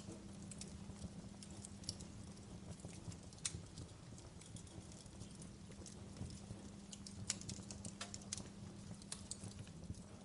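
Fireplace fire crackling: irregular sharp pops and snaps, a few louder than the rest, over a faint steady low hum.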